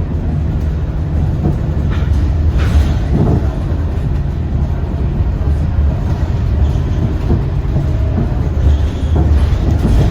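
Scania K230UB single-deck bus running along the road, its diesel engine giving a steady low rumble mixed with road noise. A few brief rattles come through around two to three seconds in.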